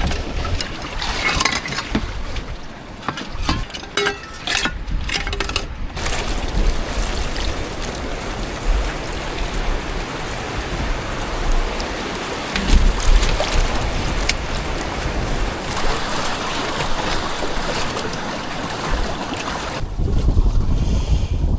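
Rain and sea water splashing around a bamboo raft in a steady rush, with sharper splashes and knocks in the first few seconds. Near the end the hiss gives way to a low rumble of wind on the microphone.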